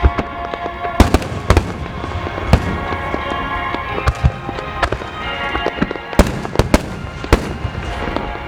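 Fireworks shells bursting overhead: about a dozen sharp bangs at uneven intervals, over music played through loudspeakers.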